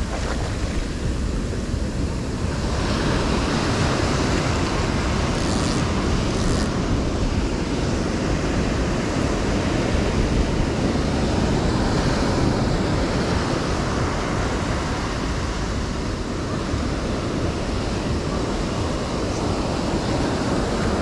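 Ocean surf breaking and washing up the beach in a steady rush that swells a little a few seconds in, with wind rumbling on the microphone.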